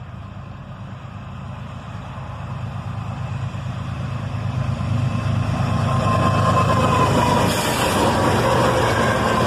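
Diesel freight locomotives approaching, their engines' low rumble growing steadily louder over the first six seconds or so and then holding.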